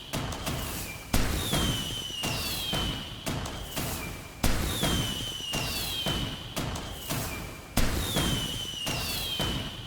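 Fireworks bursting: a sharp bang about every three seconds, three in all, each followed by crackling and a falling whistle.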